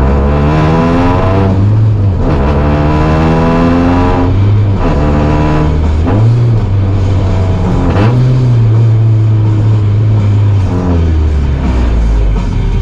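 Honda Civic race car's engine accelerating hard through the gears, the revs climbing and dropping back at each shift, about five times.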